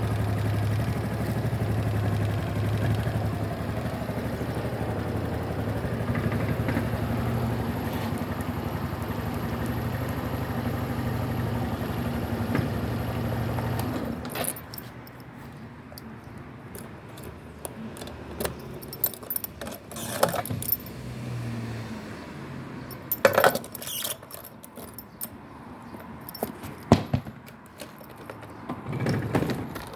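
Honda Super Cub 110's single-cylinder four-stroke engine idling steadily, then switched off about halfway through. After it stops there are scattered clicks and knocks of handling.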